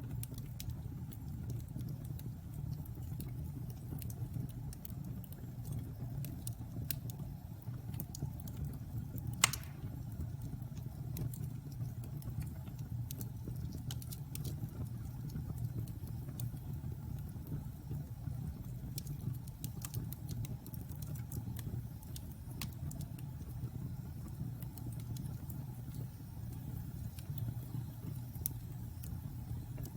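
Logs burning in a fireplace: a steady low rumble with scattered crackles and pops, and one louder pop about nine and a half seconds in.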